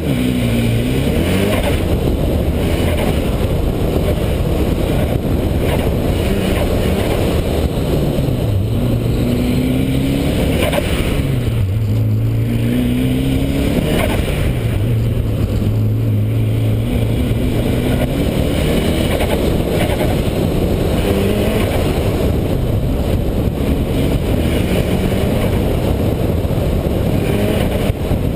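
Car engine revving up and dropping back again and again as the car accelerates and brakes through an autocross course, over a steady low rumble.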